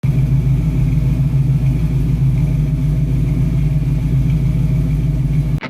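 A car engine running steadily with a deep low rumble, without revving. It cuts off suddenly near the end.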